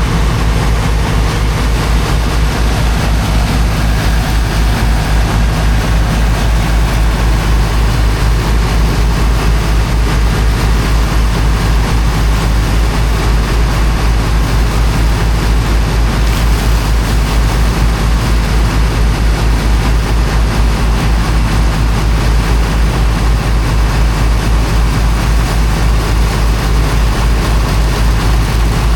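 Engine of a high-pressure water pump running steadily with a fast, even low throb, over a constant hiss of rushing water from the jet.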